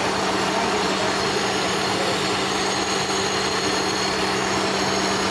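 Toyota Corona's 3S four-cylinder engine running steadily, a constant hum over a wide even noise.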